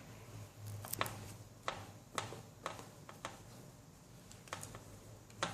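Faint, irregular clicks and taps of kitchen utensils against a mixing bowl, about ten over the stretch, over a low room hum.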